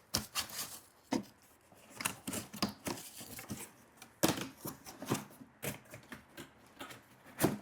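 Corrugated cardboard being handled: tabs of a cardboard backing panel pushed and worked through slots in an upright, an irregular run of taps, scrapes and crinkles.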